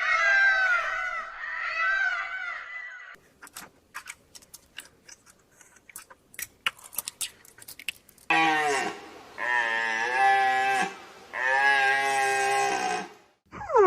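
Animal calls in three parts. First a run of short rising-and-falling cries, then about five seconds of sharp irregular clicks, then three long calls of about a second each near the end.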